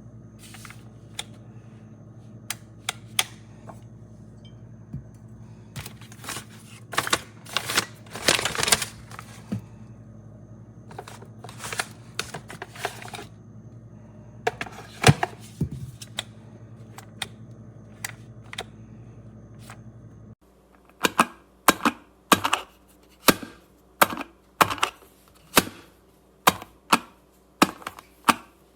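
A run of sharp clicks and knocks, scattered and bunched at first over a steady low hum. About twenty seconds in the hum stops and the clicks turn into an even series, a little over one a second.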